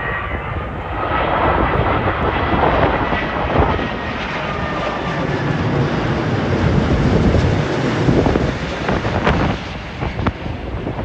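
Jet airliner on landing approach passing low overhead: engine rumble with a faint whine, the sound easing near the end. Gusty wind buffets the microphone throughout.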